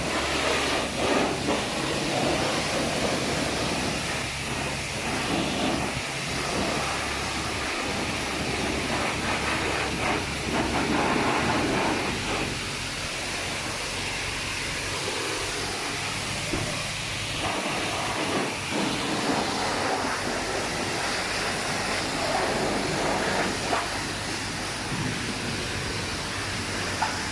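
High-pressure water spray hissing and drumming against the car's body and windows, heard from inside the cabin, surging unevenly as the jet moves over the car and over a steady low hum. The spray breaks off right at the end.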